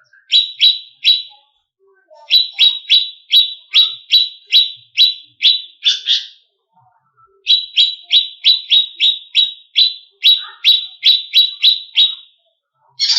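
Cucak ijo (green leafbird) calling in series of sharp, quickly falling chirps: three at first, then a run of about a dozen, and after a short pause a faster run of about fourteen.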